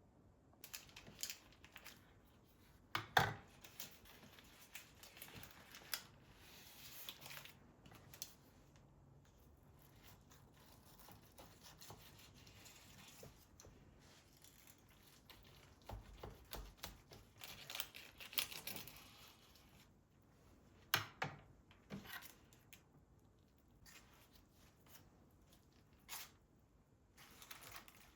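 Quiet handling noises of household objects: intermittent rustling and tearing with scattered clicks and a few sharp knocks, the loudest a few seconds in.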